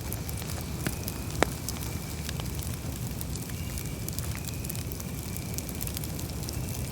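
Campfire burning: a steady low rumble of flames with scattered sharp crackling pops, the loudest about a second and a half in.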